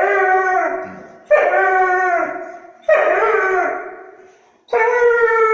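Injured dog howling and whimpering in pain from a gunshot wound to the ear. It gives a series of loud wailing cries about every second and a half, each starting sharply and tailing off; the last cry is longer and slowly falls in pitch.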